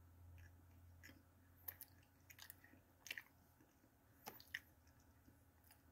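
Faint mouth sounds of a person chewing a cookie: a few scattered small clicks and smacks, over a low hum that fades out about two seconds in.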